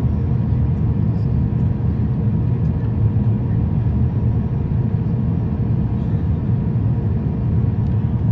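Cabin noise inside an Airbus A350-1000 airliner in flight: a steady low rumble of engines and airflow, with a faint steady hum above it.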